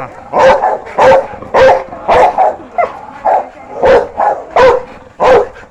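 A dog barking over and over, about nine short barks at an even pace of a little under two a second.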